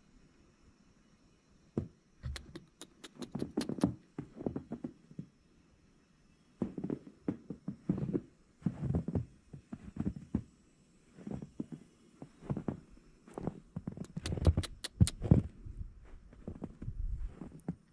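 Irregular soft thumps and sharp clicks in uneven clusters, with short quiet gaps between them.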